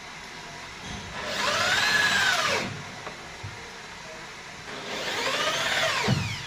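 Handheld electric power tool run twice in short bursts, each time spinning up in pitch and winding back down.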